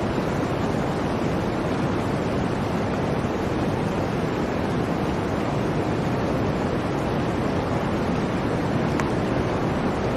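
Blizzard wind: a steady, even rush of noise with no breaks, and a faint tick about nine seconds in.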